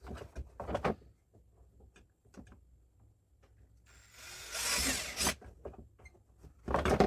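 Power drill running in short bursts, the longest just over a second about four seconds in, with small clicks and knocks between. It is drilling stop holes at the ends of cracks in a plastic sled to keep the cracks from spreading.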